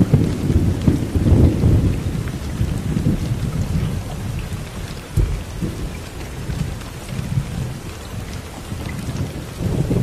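Steady rain with low rolling thunder, the rumble loudest in the first couple of seconds and then going on more softly.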